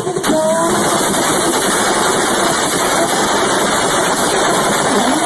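A car engine running steadily under a loud rushing noise, with a brief rise in pitch about a quarter second in.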